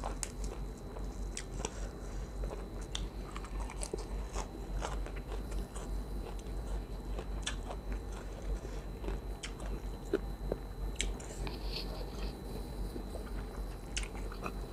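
Close-miked chewing and biting while eating rice noodles in curry with fresh herbs: irregular small crunches and wet mouth clicks.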